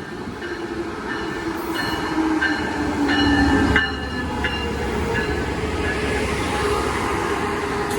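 Train running on the rails, a steady rumble with short, high squealing tones from the wheels coming and going. It is loudest about three and a half seconds in.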